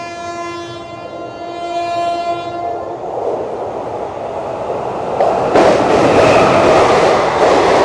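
Train horn held on one steady note, cutting off about three seconds in. Then the rumble and clatter of a train running along the platform, swelling and loudest in the last couple of seconds.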